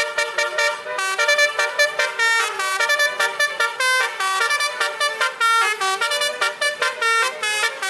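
A truck's basuri (telolet) horn, a set of musical air-horn trumpets, playing a fast melody of short notes that change pitch several times a second.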